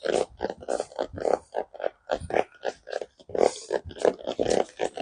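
Horse being ridden, making a rhythmic sound about twice a second in time with its stride.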